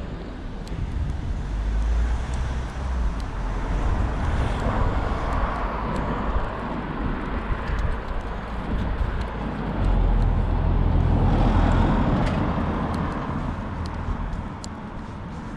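Street traffic with cars passing by, the loudest passing about ten to twelve seconds in and then fading away.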